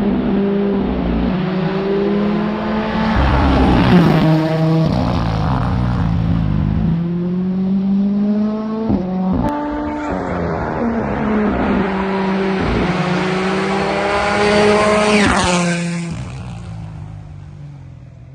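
Rally car engine at full throttle on a stage, rising in pitch and dropping sharply again and again as it shifts gears and lifts off, with a sharp crack about nine seconds in. It gets loudest as it passes near the end, then fades away.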